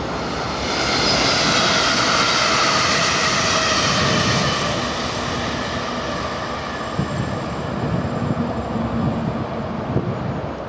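NS Sprinter Lighttrain electric train passing close by: a rush of running noise with a whine that falls steadily in pitch as it goes past, then fades away.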